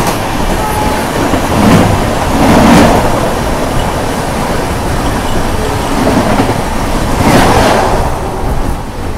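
Passenger train running on the rails, a loud steady rumble and rattle of the coach that swells louder a few times.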